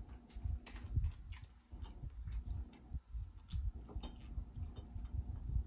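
Close-miked chewing of a mouthful of seafood boil: irregular soft, wet mouth smacks and small clicks. About four seconds in, he drinks from a plastic water bottle.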